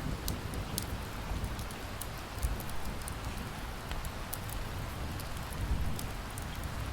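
Steady rain with the scattered sharp pops and crackles of a wood fire in a fireplace, a few a second and irregular, over a low rumble.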